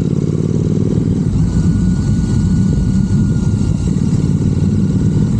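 Royal Enfield Continental GT 650's 648 cc parallel-twin engine running steadily through an aftermarket Red Rooster exhaust while the bike cruises, a loud, deep, even exhaust note.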